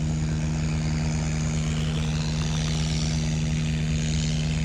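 A steady, even engine drone: a constant low humming tone with a second tone above it, holding level throughout.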